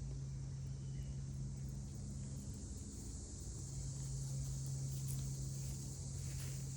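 Outdoor ambience: a steady, high-pitched insect chorus, with a steady low hum underneath.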